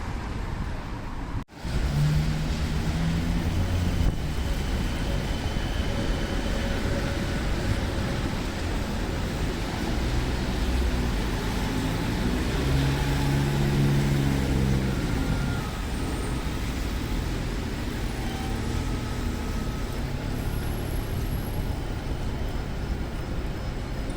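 City street traffic on a rainy evening: a steady hiss of wet road and rain, with passing vehicle engines. A heavy vehicle's engine swells and fades about halfway through. The sound cuts out briefly about a second and a half in.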